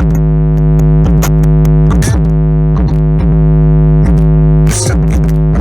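Hip hop track played loud through a car audio system: synthesizer chords over a heavy bass line with repeated downward-sliding bass notes and crisp hi-hat ticks, in an instrumental stretch without vocals.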